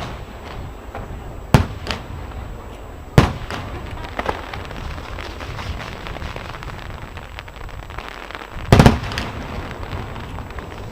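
Aerial fireworks bursting: sharp bangs about a second and a half and three seconds in, lighter pops after each, and a quick run of loud bangs near the end, with crackling between.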